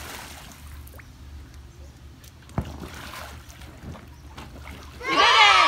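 Faint sloshing and lapping of pool water around a swimmer on an inflatable float, with a steady low rumble of wind on the microphone and a single thump about two and a half seconds in. Loud music cuts in near the end.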